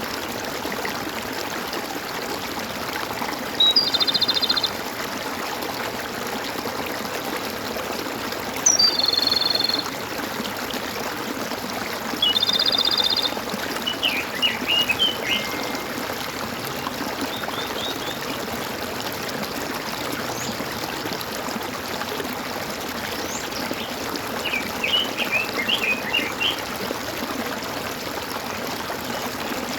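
Stream water flowing and gurgling steadily, with birds calling over it: three buzzy, trilled calls about a second long, a few seconds apart, then clusters of short chirps.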